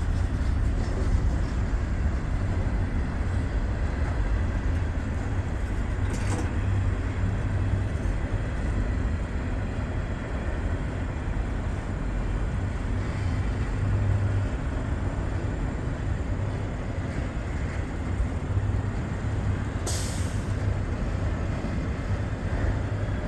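Slow freight train of mostly empty auto-rack cars rolling by, a steady low rumble of wheels on rail, with a short hiss about six seconds in and a louder hiss near the end.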